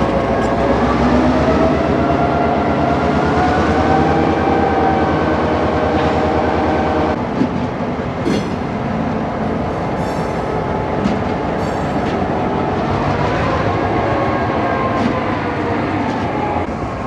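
EMD GP38-2 diesel locomotive's roots-blown 16-cylinder 645 engine working under load, its note rising over the first few seconds, holding, then easing off near the end. A few sharp clicks from the rails come through the middle.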